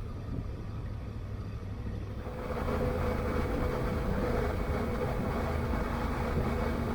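Honda Africa Twin's parallel-twin engine running with wind noise while riding, getting louder about two seconds in.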